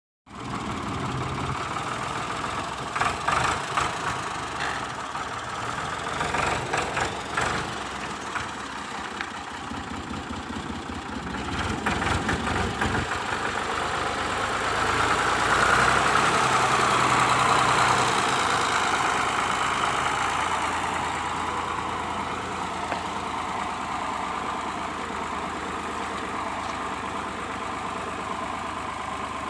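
Ford tractor engine running, with some irregular loud bursts in the first half, growing loudest a little past halfway and then easing off.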